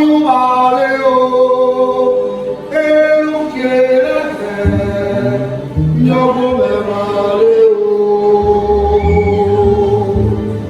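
Voices singing a slow church song in long held notes, with a deeper low part joining about halfway through.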